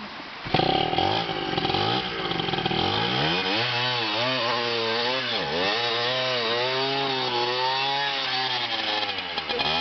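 Trail motorcycle engine running close by, coming in loud about half a second in and revving up and down with the throttle, with one brief deep drop in revs past the middle.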